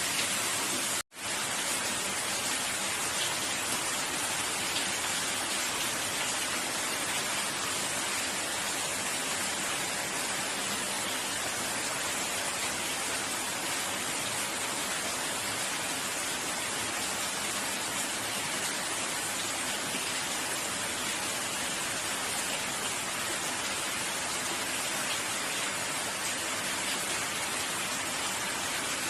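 Steady, heavy rain falling, an even hiss of drops with no let-up, cutting out for an instant about a second in.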